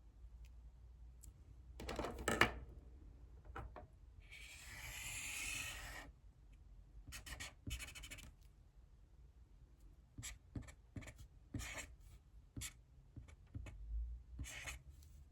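Hand-writing on paper: short scratchy strokes, with one longer rubbing stretch of about two seconds about four seconds in.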